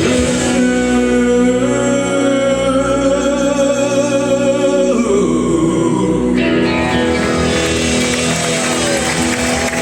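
Live rock music: a singer over guitar, with a long held note in the first half before the music moves on about five seconds in.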